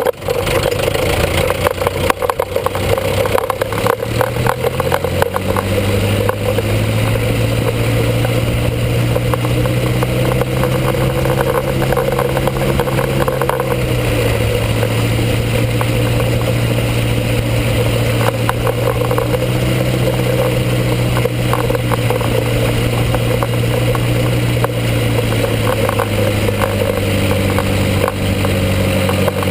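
International Harvester B-250 four-cylinder diesel tractor engine running at a steady speed, heard from underneath the tractor. The first several seconds are full of clattering and crackling, which then gives way to an even engine note with a slight change in pitch about halfway through.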